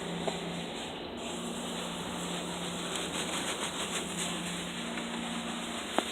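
PDQ ProTouch tandem car wash running: a steady hiss of spraying water over a low machine hum, with two short sharp clicks, one just after the start and one near the end.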